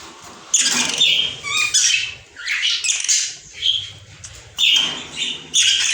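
Budgerigars chattering and squawking in a quick run of short, harsh calls with brief pauses between them.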